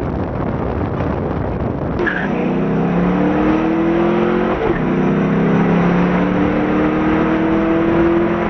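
Twin-turbo Ford Mustang engine pulling hard under acceleration, its pitch climbing slowly through the gears, with a brief break about halfway through as it shifts.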